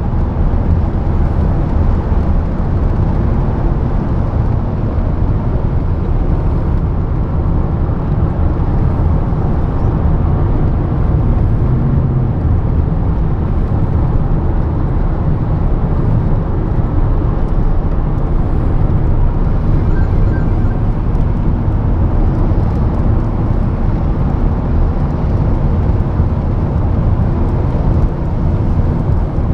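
Steady low rumble of a vehicle driving along a road, as from inside or on a moving car, with no changes in pitch.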